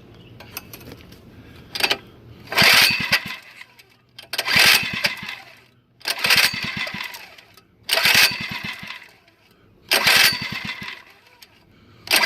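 Small mini-bike engine being pull-started: about five hard pulls on the recoil starter roughly two seconds apart, each cranking the engine for a second without it catching.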